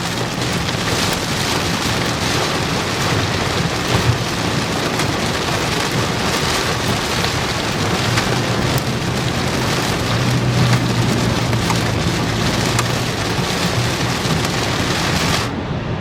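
Heavy rain pelting a moving vehicle, heard from inside the cabin: a dense, steady hiss of drops with many small sharp hits, over the low drone of the engine and tyres on the wet road. Near the end the hiss briefly drops away.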